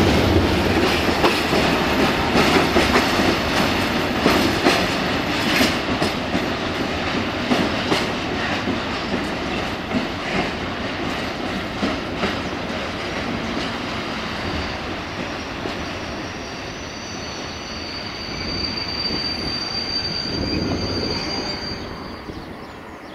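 Freight train of tank wagons rolling away, its wheels clicking over rail joints and points, the noise fading as it goes. From about two-thirds of the way through, a high, steady wheel squeal joins in.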